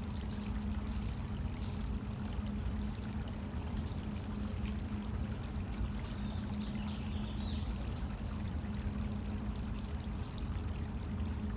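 Steady running water, with a low steady hum underneath.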